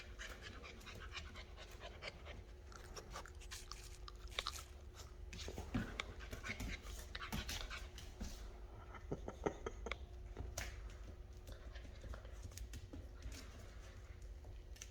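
Tired Rottweiler puppies panting after play, with many small scattered clicks and scratches over it.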